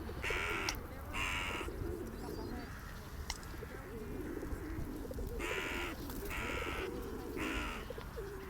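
A gathering of seagulls and other birds calling: a steady low warbling murmur throughout, with five short, sharp calls, two about a second in and three in quick succession from about five and a half seconds in.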